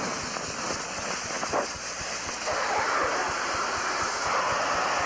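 Steady hiss of nitrous oxide venting from a hybrid rocket motor during filling, growing louder about halfway through, with wind buffeting the microphone.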